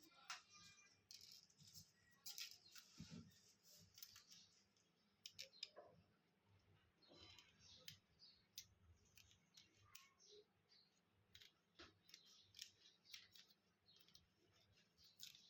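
Faint, irregular small clicks and scrapes of hand tools working on a smartphone's plastic and glass parts during disassembly.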